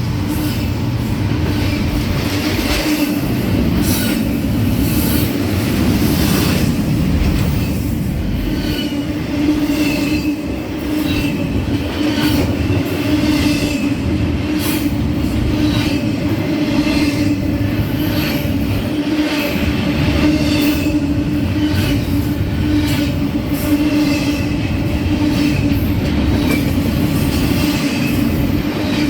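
A freight train's cars rolling past, with a loud steady rumble of steel wheels on rail, a rapid run of clicks over the rail joints, and a faint wheel squeal.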